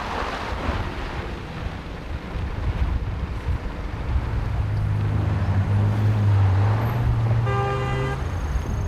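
Road traffic: a motor vehicle's engine runs and passes, with a short car horn toot near the end.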